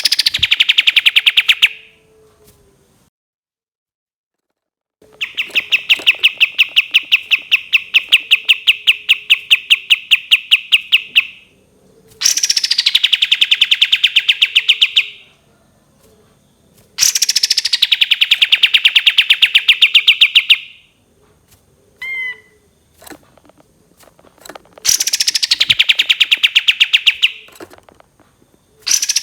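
Kapas tembak songbird singing a series of long, loud, rapid trills. Each trill starts with a falling sweep and then runs on at one steady pitch for a few seconds; there are about five of them with short pauses in between.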